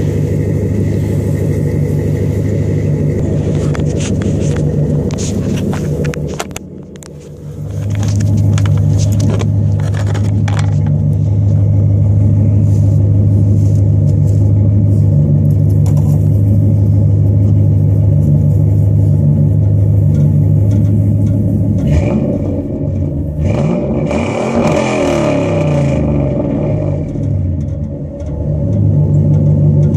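A 2000 Chevrolet 1500's 5.3-litre V8 running through a catless single-in, dual-out exhaust with Thrush welded mufflers, idling with a deep steady exhaust note. It goes briefly quieter about seven seconds in, and from about 22 seconds is revved up and down several times.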